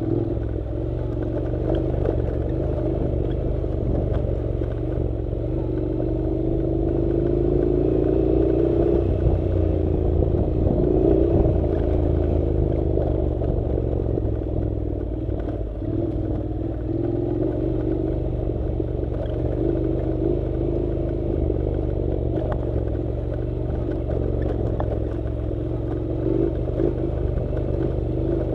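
Honda NC700 motorcycle's parallel-twin engine running steadily while riding a dirt road, its note rising a little about a third of the way in and then settling.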